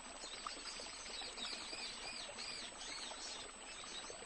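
Faint bird calls: a quick series of short, high, arching chirps, several a second, over a light hiss of outdoor background.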